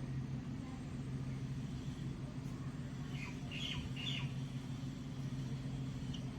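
A small bird gives three or four short, high chirps about three to four seconds in, over a steady low hum.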